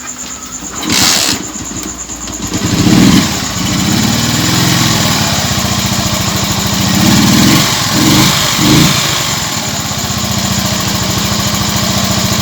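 Racal 125 motorcycle engine being test-started after its overhaul, with a fresh cylinder head fitted and the timing just set: it catches about two seconds in, is blipped up and down around three seconds and twice more near eight seconds, and otherwise idles steadily.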